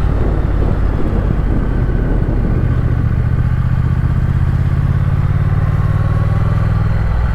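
Triumph Speed Twin parallel-twin motorcycle engine running on the road with wind and road noise. The engine note settles into a steady, even pitch about two and a half seconds in.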